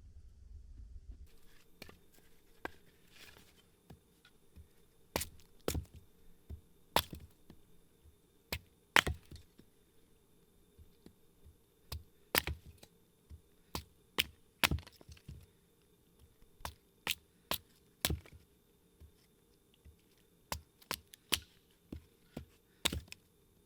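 Wood being chopped: a series of sharp, irregular chops, one or two a second, starting about five seconds in.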